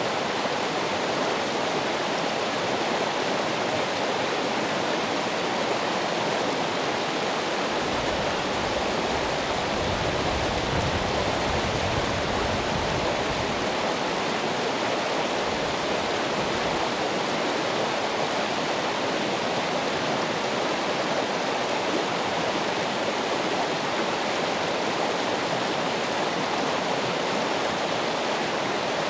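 Running water, a steady rushing flow like a stream or small waterfall, with a low rumble added for several seconds in the middle.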